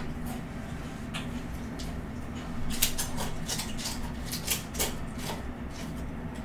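Close-miked eating of spicy instant noodles: chewing with many quick, wet clicks of the mouth, busiest in the middle, over a low steady hum.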